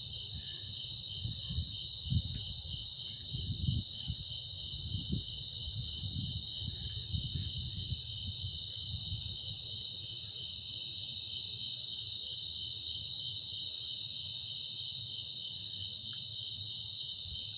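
A chorus of night insects chirring steadily in a high, fast-pulsing trill, over low, irregular gusts of wind buffeting the microphone.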